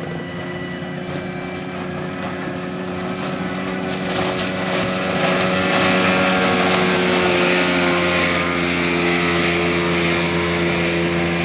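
A Humber Jewel boat's 70 hp Mercury outboard motor running hard as the boat passes by, growing louder about four seconds in and staying loud to the end.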